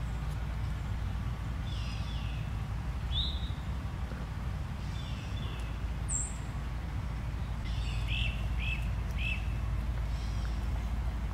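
Wild birds calling on and off: scattered short chirps, then a quick run of three falling chirps about eight seconds in, over a steady low rumble.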